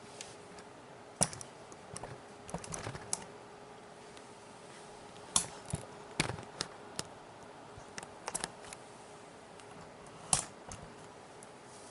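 Sharp plastic clicks and taps from a Nerf gun being handled and tapped, coming irregularly, singly and in small clusters, over a faint steady hum.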